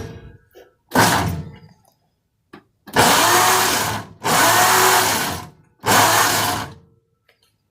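Hudson engine being turned over by its starter motor in about five short bursts of around a second each, spark plugs out so it spins freely without firing. It turns over, so the engine is not seized.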